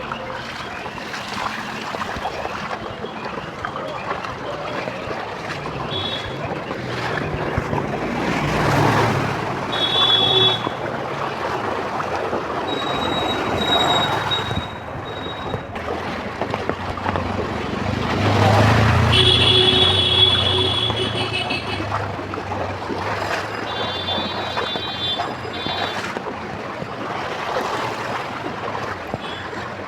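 Busy street noise in heavy rain: a continuous wash of rain and traffic, swelling three times as vehicles pass close by, with a low engine rumble on the loudest pass. Short, high-pitched beeps, like horns or bells, sound several times.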